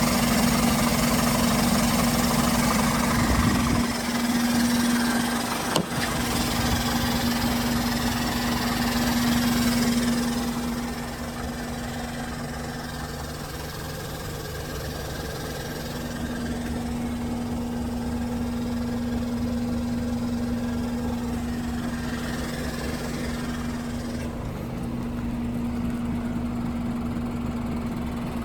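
Scania P500 truck's diesel engine idling with a steady hum. It drops in level after about ten seconds, and there is a single click about six seconds in.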